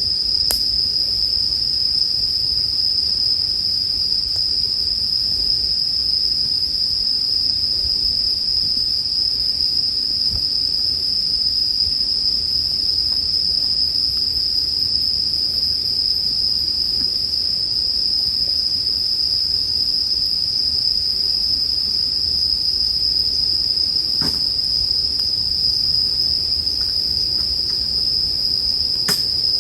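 Dense, steady chorus of Japanese bell crickets (suzumushi) singing in one high ringing band, over a low campfire hiss. A few faint crackles from the fire, three in all.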